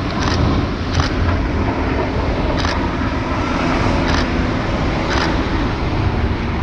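Military helicopter running overhead, a steady loud rumble with rotor and turbine noise, with a few short sharp clicks at irregular moments.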